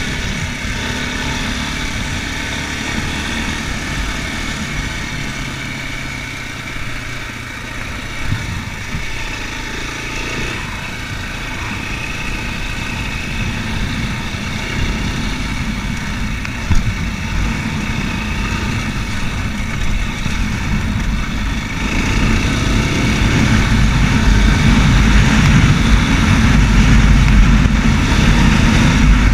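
Racer Panther 300 enduro motorcycle engine running under way, getting louder and heavier in the low end about three-quarters of the way through.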